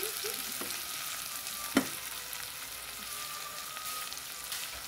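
Diced chicken, mortadella and bacon sizzling as they fry in a stainless steel pot, stirred with a silicone spatula, with one sharp knock about two seconds in.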